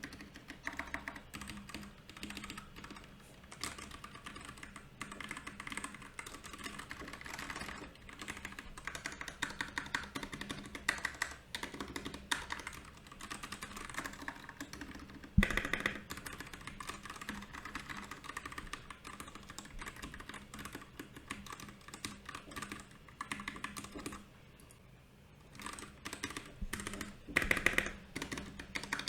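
Typing on a Royal Kludge RK68 mechanical keyboard, a steady run of key clicks. There is one louder knock about halfway, and a short pause a few seconds before the end.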